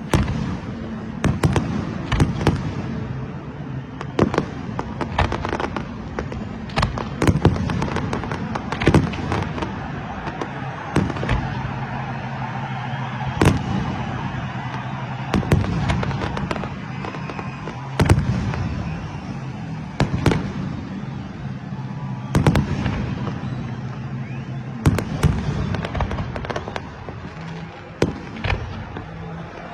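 New Year fireworks going off without a break: many sharp bangs at irregular intervals, one to several a second, over a constant background crackle of distant bursts.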